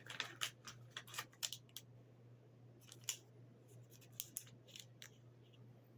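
A plastic pack of lollipops being opened by hand. There is a quick run of crisp clicks and crinkles in the first couple of seconds, then a few scattered ones.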